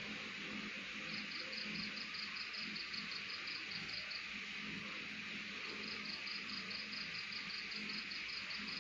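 Insects chirping: trains of rapid high chirps, about five a second, that break off for a second or two and start again, over a steady high insect hiss.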